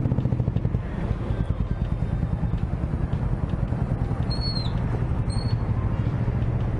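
Small motorcycle engine idling with a steady rapid pulse. Two short high chirps come about four and five seconds in.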